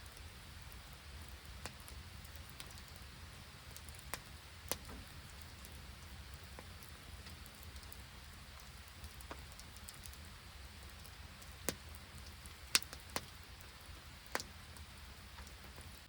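Rain falling steadily, a soft even hiss, with about ten sharp ticks scattered through it, the loudest three in the second half.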